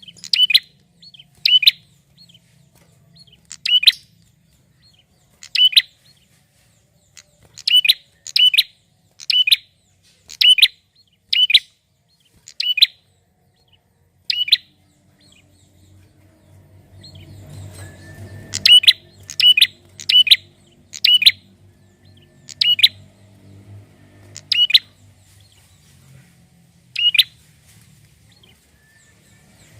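Male prinia (prenjak) calling: short, sharp, loud chirps repeated about once a second. The calls pause for a few seconds about midway, then resume.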